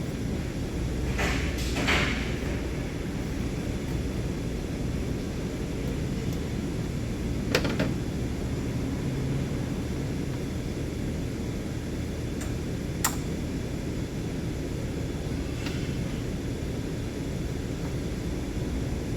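Scattered metallic clicks and clinks of tools and engine parts being handled as components are removed from a car's engine, a few at a time, over a steady low background rumble.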